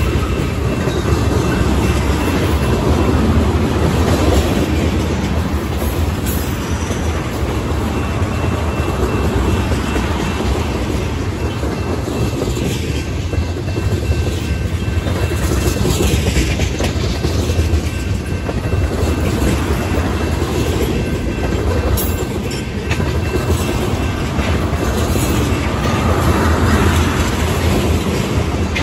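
Freight train's tank cars rolling past close by: a steady rumble of steel wheels on the rails, with a few sharp clicks.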